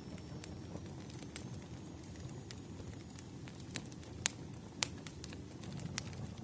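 Campfire crackling: irregular sharp pops and snaps over a steady low rumble, a few pops standing out louder near the middle.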